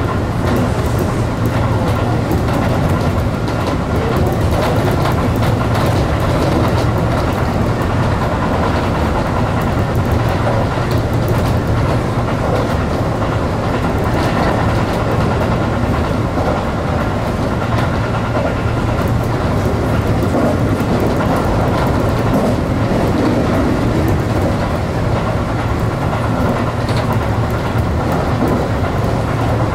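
Tobu Railway electric commuter train running at speed, heard from inside the leading car: a steady low hum under continuous rolling noise of the wheels on the rails, with light clicks over rail joints.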